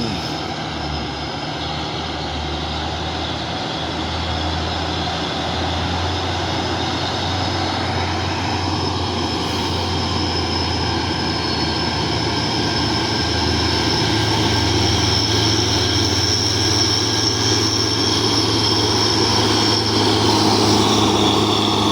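Heavy diesel truck engines running under load, a steady deep drone that grows slowly louder, with a thin high whine coming in about halfway.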